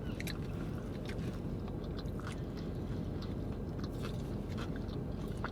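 A person chewing food, with scattered small crunchy and wet mouth clicks, over a steady low hum.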